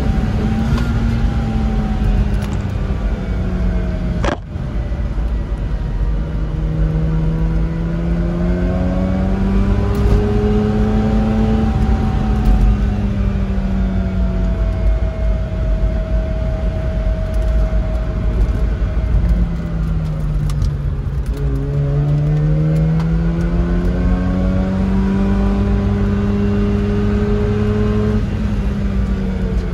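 Mazda rotary engine heard from inside the car, its pitch rising and falling smoothly several times as the driver accelerates and eases off, over steady road rumble. A short click comes about four seconds in.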